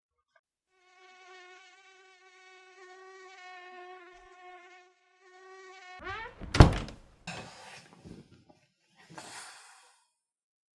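Mosquito whine: a steady, thin buzz that wavers a little and breaks off briefly before resuming. About six seconds in it is cut short by a sudden loud thump, followed by two short bursts of rustling.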